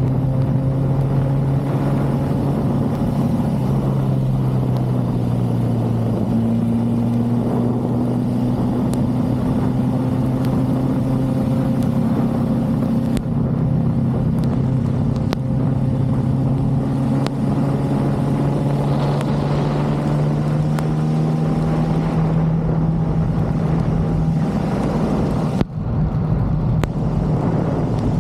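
Motorcycle engine running steadily at low speed, its pitch dipping about four seconds in and then slowly climbing, over a low rumble. The sound drops briefly near the end.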